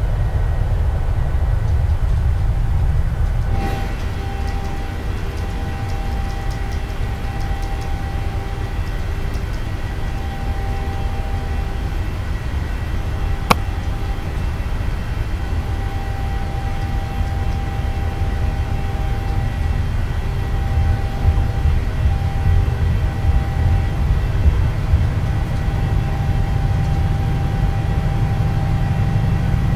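Boeing 737 jet engines at high thrust during the takeoff roll: a loud, deep rumble, with steady engine tones coming in about four seconds in. A single sharp click comes about halfway through, and the rumble grows heavier near the end.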